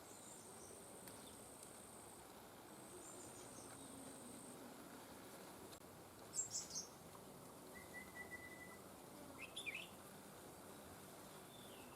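Faint outdoor birdsong: a few short separate chirps and a brief steady whistled note in the second half, over a high, steady insect trill that comes in long stretches during the first few seconds.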